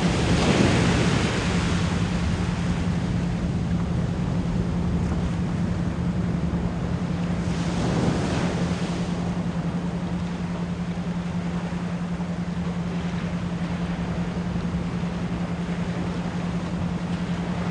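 Ocean surf washing in, swelling at the start and again about eight seconds in, under a steady 174 Hz pure tone that is pulsed isochronically.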